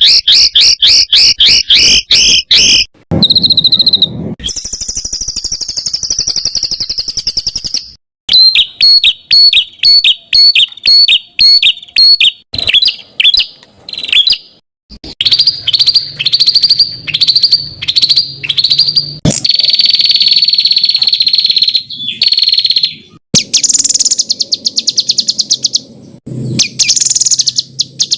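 A songbird sings a loud, varied song of fast repeated chip notes, rapid trills and sweeping whistled phrases. The phrases are separated by a few abrupt breaks, as in an edited tutoring (masteran) recording.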